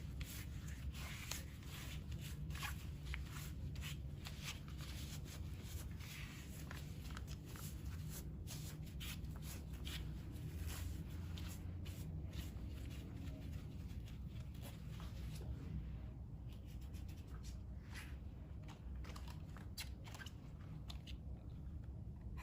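Close-up rustling and crinkling handling sounds with scattered soft clicks, irregular and thinning out in the last few seconds, over a steady low hum.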